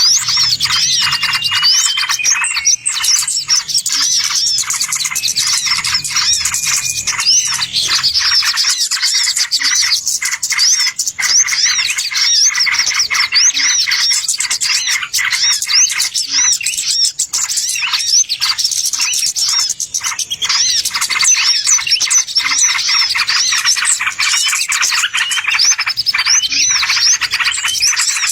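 A dense, continuous chorus of small songbirds chirping rapidly, many quick overlapping calls with no pause: a bird-lure (pikat) recording made to draw in wild birds.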